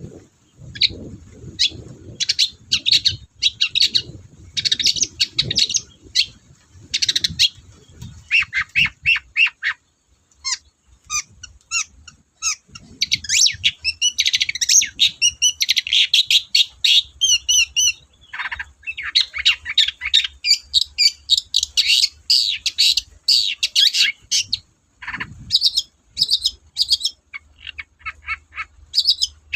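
Long-tailed shrike (cendet) singing a fast, varied, chattering song of harsh and sharp notes in quick bursts with brief pauses.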